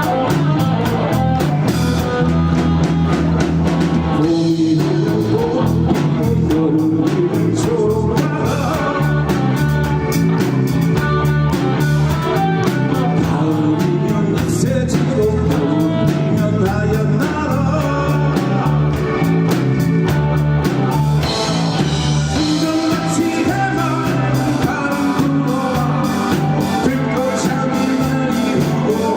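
Live rock band playing: electric guitar, bass and drum kit keeping a steady beat, with a singer's voice.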